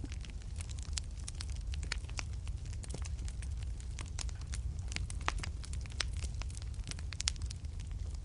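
Wood fire in a fireplace crackling: a quick, irregular scatter of sharp pops and snaps over a steady low rumble.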